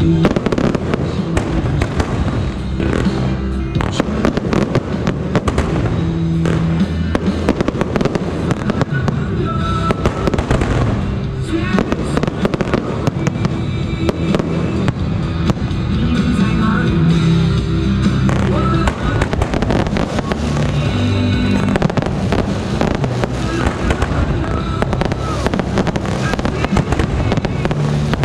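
Aerial fireworks going off in dense, continuous bangs and crackles, over background music.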